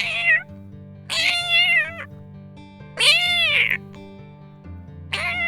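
A domestic cat meowing four times, each call a second or less: the third rises then falls in pitch, and the last slides downward. Soft background music plays under the calls.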